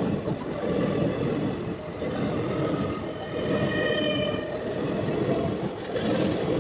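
Express train running on the track with a steady, dense rumble. A brief high-pitched tone rises above it near the middle.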